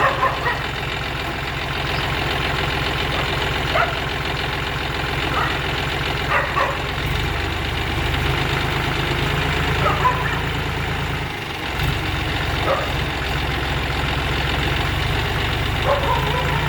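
John Deere tractor engine running steadily at idle, its low note growing heavier about seven seconds in, with a brief dip a few seconds later. Short high-pitched sounds, several of them, break in over the engine.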